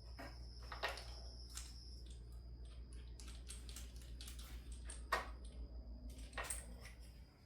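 Hand tools clicking and clinking irregularly against metal parts while working on the car's engine bay, one sharper clink about five seconds in. A steady low hum runs underneath and cuts off just before the end.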